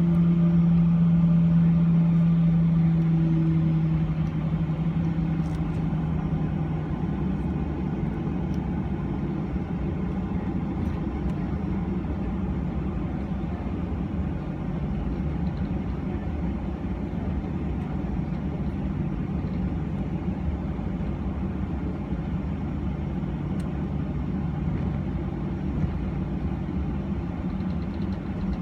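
Steady low rumble and hum inside the forward cabin of a Boeing 737-900. A loud, low steady tone fades away over the first six or seven seconds.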